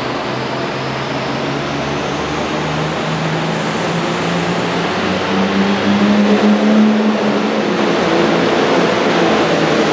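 Super farm class pulling tractor's turbocharged diesel engine running hard under load, its pitch climbing steadily through the pull. A faint high whine rises with it about four to six seconds in.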